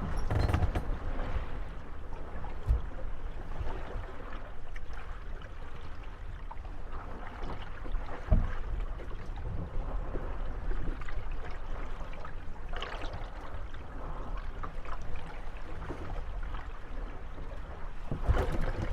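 Moored gondolas rocking on lapping water, their wooden hulls knocking and creaking against each other as waves push them together. There are single knocks about 3 and 8 seconds in and a louder cluster of bumps near the end.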